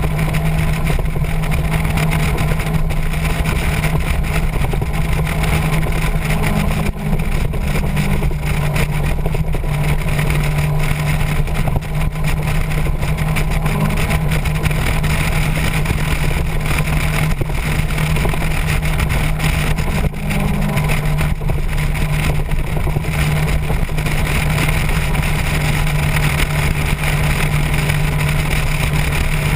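Motorcycle engine running at a steady cruising speed, with wind and road noise over the microphone. Its pitch holds nearly constant, with brief small dips in throttle a few times.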